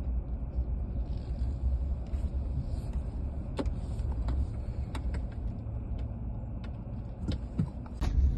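Steady low rumble of a car moving along a road, heard from inside the cabin, with a few light clicks and rattles.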